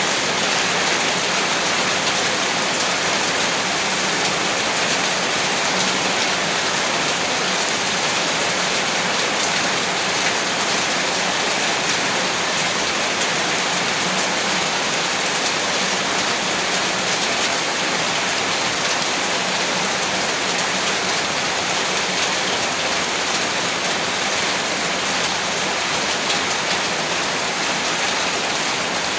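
Heavy rain falling hard and steadily on surfaces, a dense unbroken hiss with no breaks or thunder.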